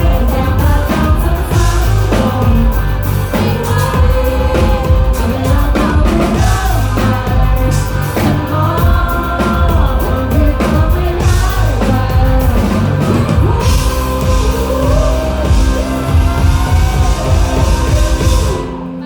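Live rock band playing loudly, a male singer's voice over drums, bass and guitars. Near the end the drums drop out, leaving sustained low chords.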